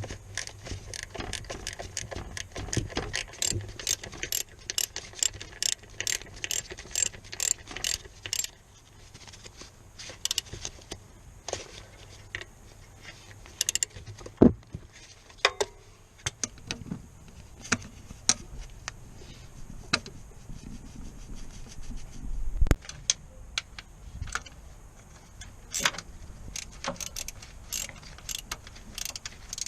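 Metal hand tools at work on a car: a run of even clicking, about three clicks a second, for roughly eight seconds, then scattered metallic clinks and knocks.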